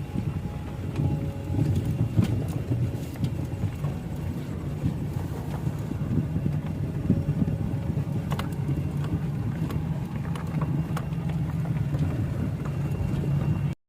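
Steady low rumble of a car driving along, engine and road noise, with a few light knocks. It cuts off abruptly near the end.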